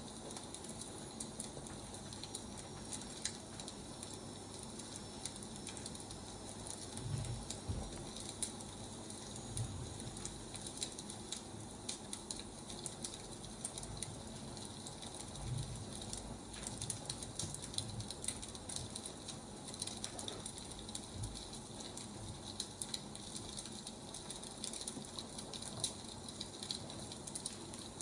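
Burning firewood crackling and popping in irregular sharp snaps over a steady hiss, with a few soft low thumps.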